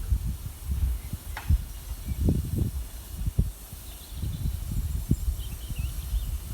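Wind buffeting the microphone in irregular gusts, over a faint steady hiss.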